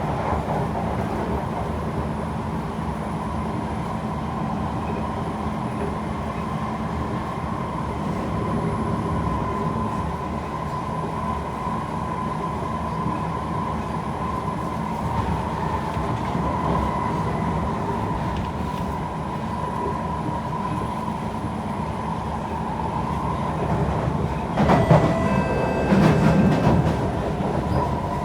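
Kawasaki C151 metro train running at speed, heard from on board: a steady rumble of wheels on rail with a steady whine. About 25 seconds in there is a louder burst of clattering with squealing.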